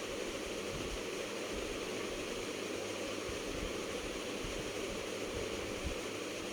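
Gas stove burner flame burning with a steady rushing hiss as the pan heats before the oil goes in.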